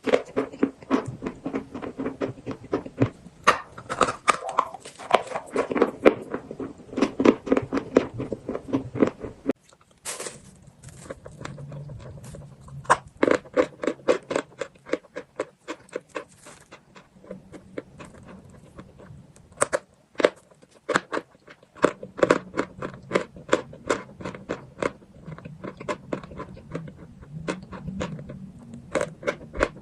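Close-up biting and chewing of chalk: rapid crisp crunches one after another. The sound cuts abruptly about ten seconds in to a thinner stretch with a low hum underneath, then dense crunching picks up again.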